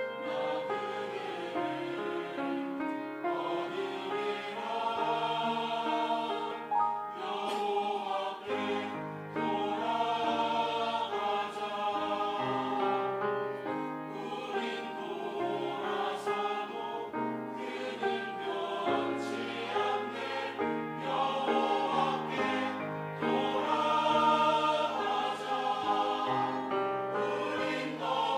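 Church choir singing a sacred anthem in parts over a continuous musical accompaniment.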